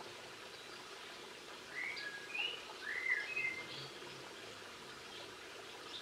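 A songbird gives a short phrase of slurred, whistled notes, rising and falling, lasting about two seconds from just under two seconds in. A steady background hiss runs underneath.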